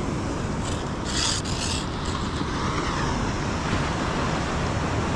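Steady wind rumble on the microphone over beach surf, with a short rasping scrape about a second in.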